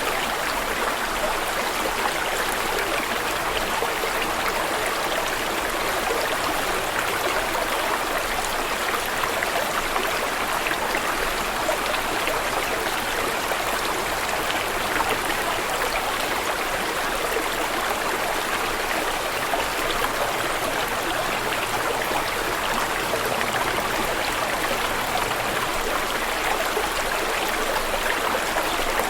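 Steady rushing and babbling of flowing water, like a stream running over stones.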